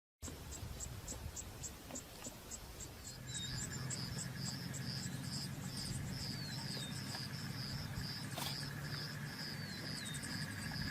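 Insects chirping in an even rhythm, about three chirps a second, joined about three seconds in by a second, faster repeating chirp with short falling notes and a steady high drone.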